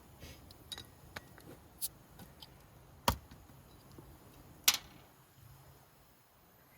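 Light clicks and clinks of tableware or a drink container being handled, with two sharp, louder clicks about three and four and a half seconds in.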